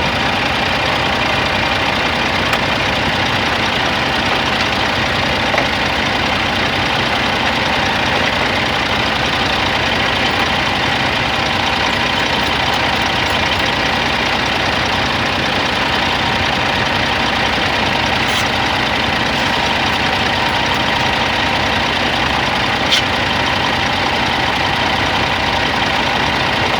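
Scania XT G450 truck's 13-litre inline-six diesel idling steadily, with a couple of faint clicks.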